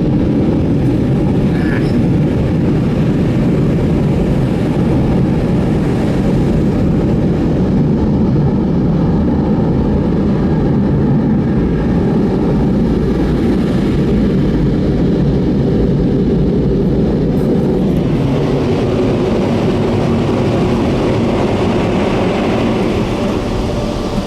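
D&S 5000 car wash dryer blowers running, a loud steady rushing roar heard from inside a car, easing slightly near the end.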